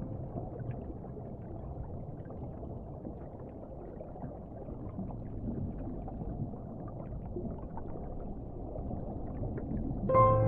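Muffled underwater ocean ambience: a steady low rumble of water with faint crackles. Piano music comes in near the end.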